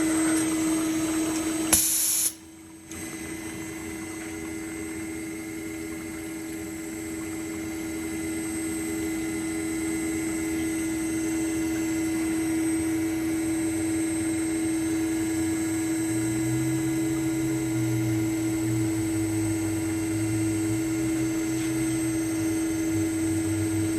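2000 Kasto Twin A4 automatic horizontal band saw running through its automatic cycle with a steady hum. A brief sharp sound about two seconds in is followed by a moment of near quiet before the running sound builds back up, and a low uneven rumble joins in during the last third.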